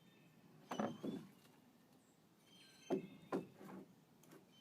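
Several soft knocks or thuds, irregularly spaced: two about a second in, a cluster of three around three to four seconds, and one at the end.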